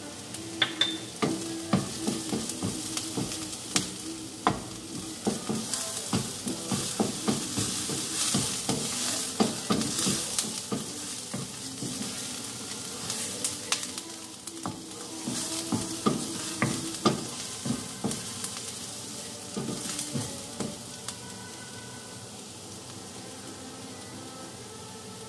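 Chopped onion sizzling in hot oil in a nonstick frying pan, stirred with a wooden spatula that scrapes and knocks against the pan again and again. Near the end the stirring stops and only the steady sizzle remains.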